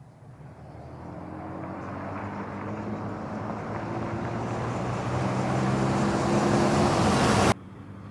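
A motor's steady hum with rushing noise, growing steadily louder, then cut off abruptly about seven and a half seconds in.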